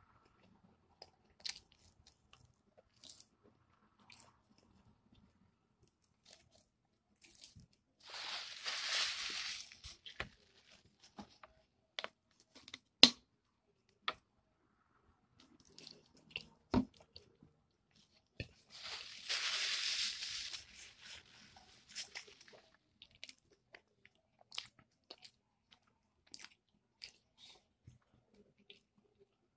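A person chewing and biting fried chicken up close, with scattered small crunches and clicks. There is a sharp click about thirteen seconds in, and two hissy, rustling noises of about two seconds each, about eight and nineteen seconds in.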